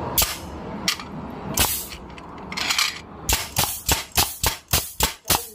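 ST64 pneumatic steel nail gun being test-fired empty: a few single shots, each a sharp bang with a puff of air hiss, then a quick run of shots at about three a second in the second half. It is firing and cycling normally with its top-cap main air gasket replaced, the fault that had left the driver not returning and without power.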